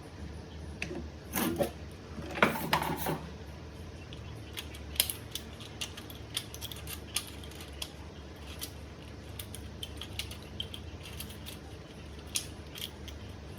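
Bench work on an 18650 battery pack: two short scraping sounds near the start, then scattered light clicks and ticks of small hard parts being handled, over a low steady hum.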